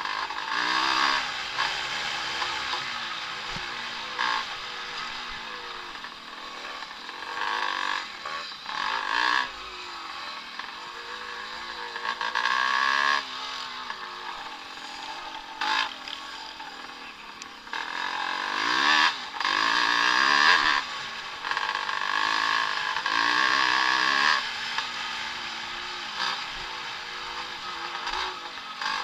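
Several vintage Evolution-class motocross bikes racing on a dirt track, their engines revving up and down through the gears, with repeated louder swells as bikes pass close by. The loudest passes come about twenty seconds in.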